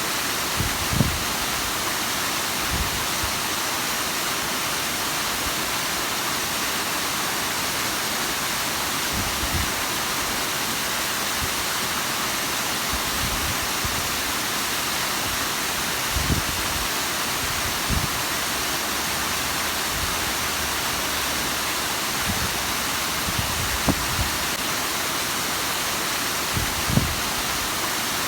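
Bigăr waterfall: a steady, full rush of falling water, with a few brief low thumps, the loudest about a second in and near the end.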